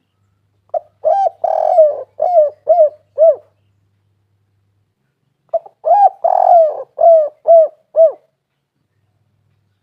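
Spotted dove (tekukur) cooing: two phrases of its rolling call a few seconds apart, each a burst of short coos with one longer purring note in the middle.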